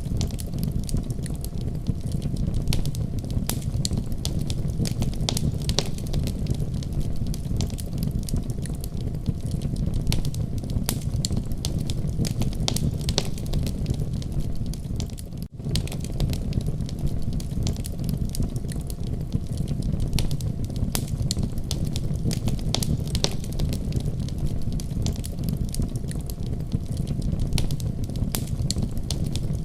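Wood fire crackling and popping, with many sharp irregular crackles over a steady low rumble. There is a brief dropout in the sound about halfway through.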